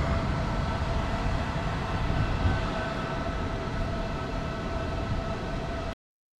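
Electric skateboard riding at steady speed: the MEEPO Shuffle's twin hub motors whining steadily over wheel rumble on pavement and wind on the microphone. The sound cuts off suddenly near the end.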